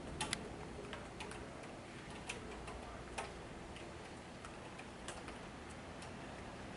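Steady, faint rain hiss with irregular sharp ticks of drops falling onto a hard surface. The loudest two come close together just after the start.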